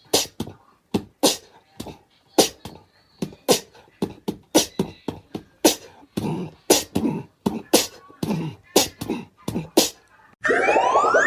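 A run of sharp clicks or smacks, about two to three a second. Near the end there is a short rising whistle-like glide that cuts off suddenly.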